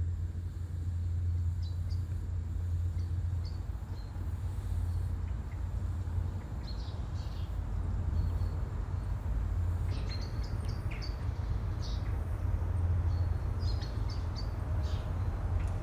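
Small birds chirping in short, scattered calls, more of them from about ten seconds in, over a steady low rumble.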